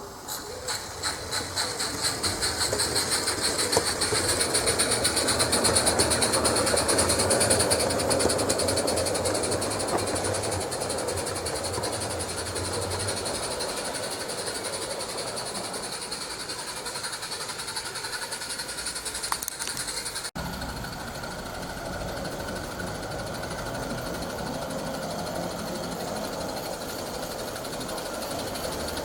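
Garden-railway model locomotive with a Slo-Mo inertia gear mechanism, hauling four coaches under load: a steady mechanical running sound. A regular beat builds up in the first few seconds. The sound changes abruptly about 20 seconds in.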